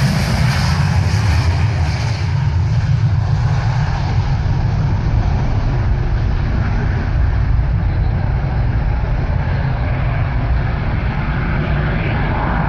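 Boeing 737 jet engines at takeoff power during a heavy, overloaded takeoff: a steady deep rumble with a hiss above it.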